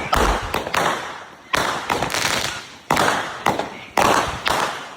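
Fireworks going off in a rapid, irregular string of sharp bangs, sometimes two or three within half a second, each trailing off in a crackling hiss.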